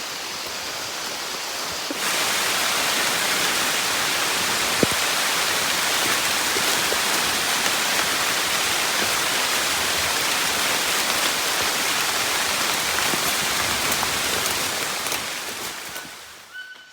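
Heavy rain pouring down on the forest, a steady dense hiss. It grows louder about two seconds in and fades away near the end.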